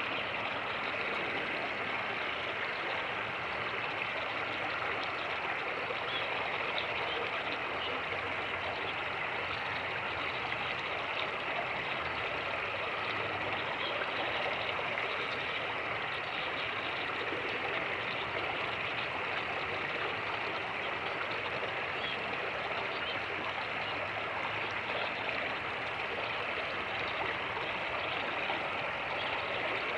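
Fast-moving creek water rushing steadily, an even, unbroken hiss.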